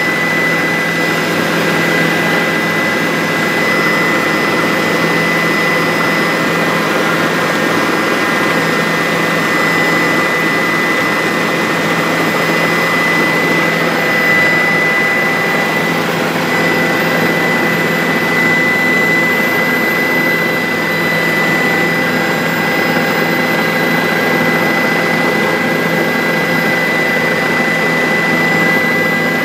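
Bell 407 helicopter in steady flight: the turboshaft engine and rotors make a loud, unchanging drone with a steady high whine running through it.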